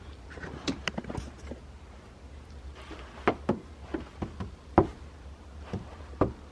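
Irregular light knocks and clicks, a dozen or so, scattered unevenly, with a sharper knock near the middle.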